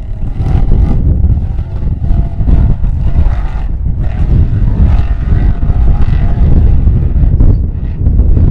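A vehicle engine running, with heavy wind buffeting the microphone.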